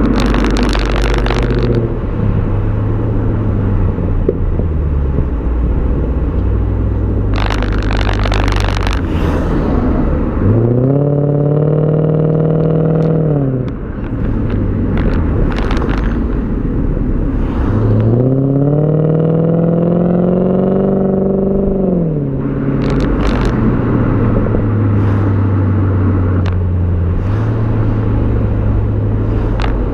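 BMW E39 540i V8 exhaust while driving, mostly lugging steadily at low revs. Twice, about ten seconds in and again near eighteen seconds, the engine pulls under acceleration, its pitch climbing and then falling away as the throttle comes off. There are a few short bursts of rushing noise.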